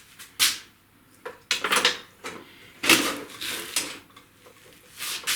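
Metal objects clanking and rattling in several separate knocks as welding gear is handled and set up.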